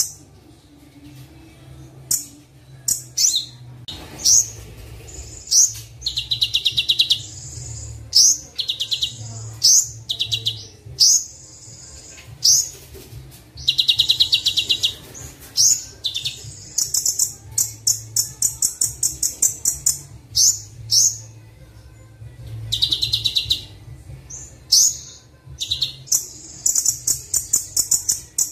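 Recorded songbird song of the Kolibri Wulung sunbird type: short high-pitched chirps and fast rattling trills of rapidly repeated notes, in bursts with brief gaps, over a low steady hum.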